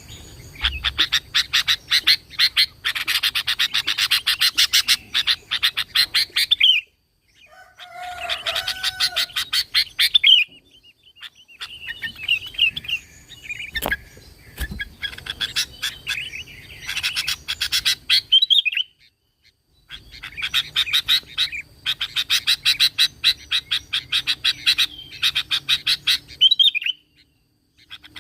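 Sooty-headed bulbul (kutilang) singing in long runs of rapid, chattering high notes. The song comes in four stretches with short silent breaks between them.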